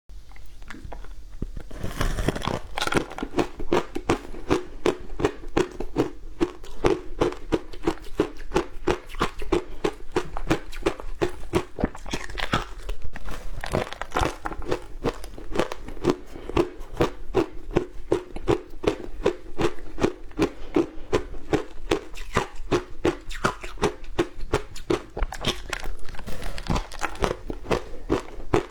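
A person biting and chewing frozen matcha ice, close to the microphone: rapid crisp crunches, several a second, starting about two seconds in.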